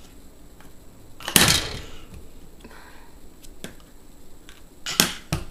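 A few sharp knocks and clatters of items being handled in an open dishwasher rack by a baby, the loudest about a second in, a small click in the middle and two more knocks near the end.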